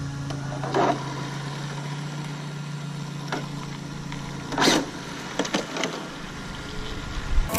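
A car's engine running as it rolls slowly along, a steady low hum that fades about four and a half seconds in. Two brief rushes of noise and a few light clicks come through over it.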